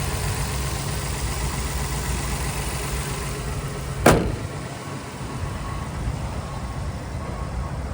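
2022 Ford Transit box truck engine idling steadily. A single sharp thump about four seconds in, after which the engine sound is quieter.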